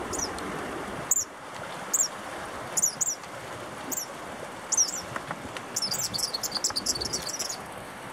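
Eastern kingbird giving short, sharp, high calls about once a second, breaking into a rapid sputtering chatter near the end: the aggressive calls of a kingbird harassing people on its territory. A steady rushing river is underneath.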